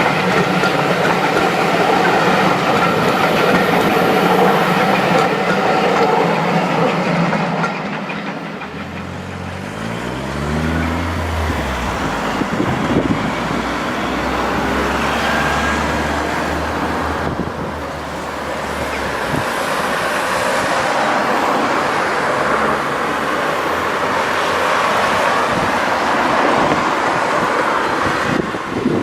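Steam-hauled train running past on the rails, with wheels clattering and several steady ringing tones at first. About nine seconds in, a low engine-like note rises in pitch, then holds steady for several seconds before fading into even running noise.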